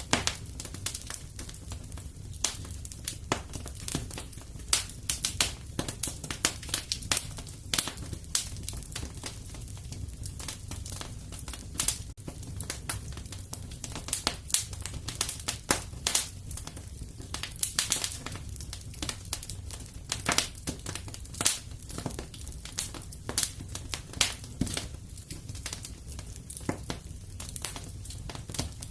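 Fire in a fireplace crackling: many sharp, irregular pops and snaps over a steady low rumble.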